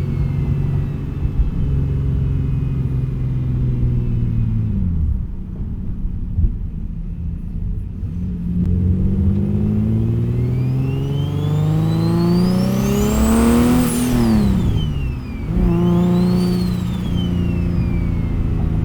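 Single-turbo Infiniti G37's VQ37 V6 pulling hard through a gear, the engine note and a high turbo whine climbing together for several seconds. Near the end of the pull the revs drop sharply as the gear changes, rise briefly again, then settle to a steady cruise.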